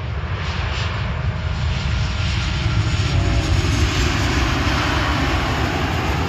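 Jet engines of a Southwest Boeing 737 landing, a steady rumble and hiss that swells to its loudest about three to four seconds in, then eases off a little.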